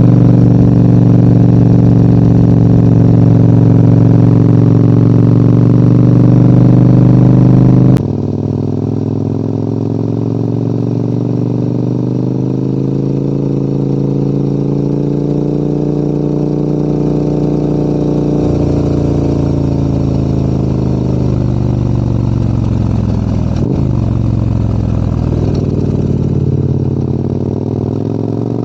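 Adventure motorcycle's engine running under load while riding, heard from the bike. About eight seconds in the sound drops abruptly in level; the engine note then sinks slowly as the revs ease off, with a short click a few seconds before the end, and rises again as it picks up.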